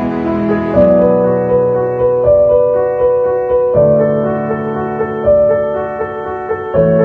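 Slow, gentle piano music: single notes struck about every one to one and a half seconds over held low chords.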